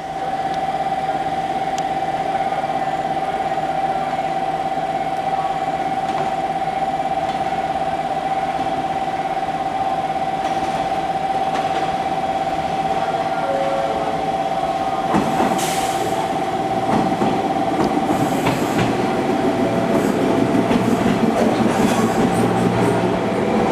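A JR 415 series electric train with a steady high whine from its equipment. From about fifteen seconds in come clanks and a rumble that grows louder, with wheels clicking over the rail joints.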